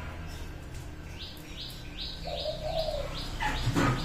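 A dove cooing, one low rounded note, while another bird gives a fast run of high chirps, about four a second, starting about a second in. A short louder burst of noise comes near the end.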